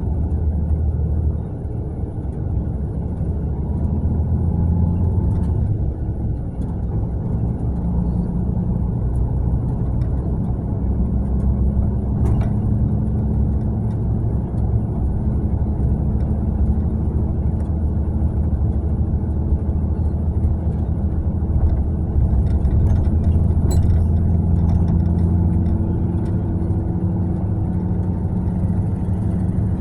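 Mercedes-Benz long-distance coach running on the road: a steady low diesel engine rumble with road noise, the engine tone shifting in pitch now and then, and a few faint ticks or rattles about 12 seconds in and again near 24 seconds.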